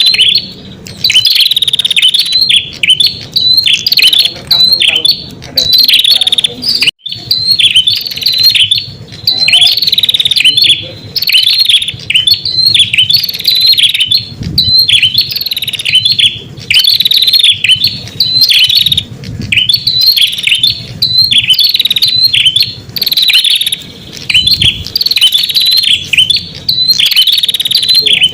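Red-headed prenjak song played as a lure call for wild prenjak: rapid, high chirping phrases repeated over and over with short breaks between them.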